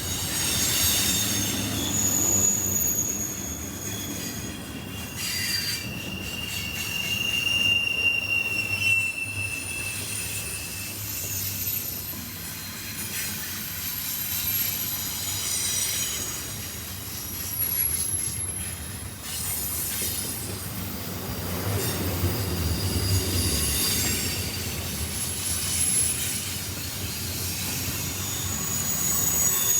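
Freight train cars rolling past, with wheels squealing against the rail in several high, shifting tones over the low rumble of the train.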